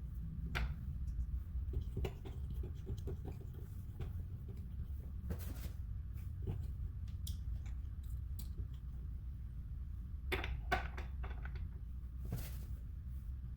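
Scattered light clicks and taps, a few louder ones among them, over a steady low hum.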